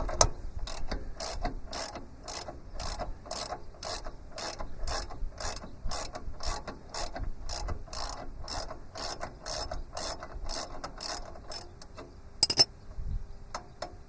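Hand ratchet clicking in a steady rhythm, about three clicks a second, as a bolt is worked loose. The clicking stops about twelve seconds in, followed by one sharp metallic clink.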